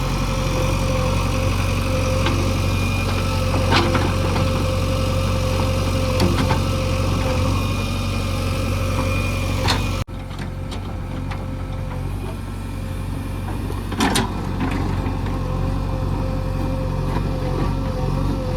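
Heavy diesel machinery engine running steadily at idle, with a few sharp knocks. About ten seconds in it drops out for an instant, then carries on a little quieter.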